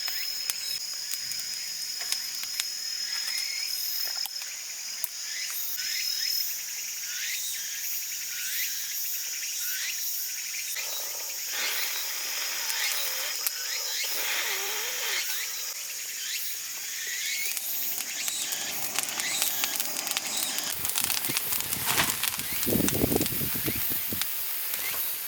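Insects chirring steadily in a high, thin tone, with many short repeated chirps over it. About twenty seconds in, a louder rustling noise comes in, with a sharp knock.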